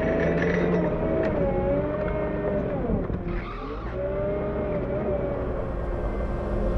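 Diesel engine of a CAT 908 compact wheel loader running steadily while plowing snow. About three seconds in, its pitch sags and then climbs back, with a short hiss and rasp at the dip.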